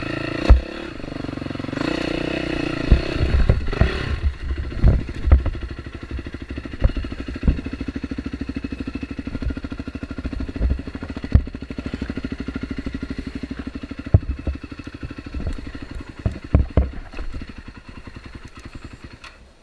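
Dirt bike engine running under load on a rough trail. It revs higher for the first few seconds, then settles into a steady low-rev chug. Scattered knocks and clatter come from the bike going over roots and rocks, and the engine gets quieter near the end.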